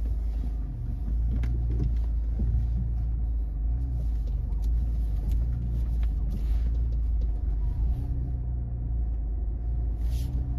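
Car engine running, heard from inside the cabin as a steady low rumble with a faint hum.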